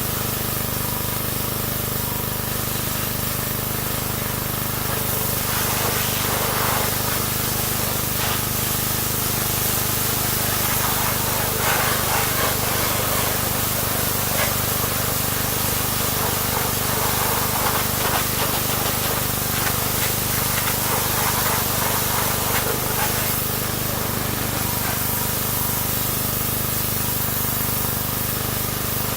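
Pressure washer running and spraying water in a steady hiss over a steady machine hum, the spray louder and rougher for most of the middle stretch.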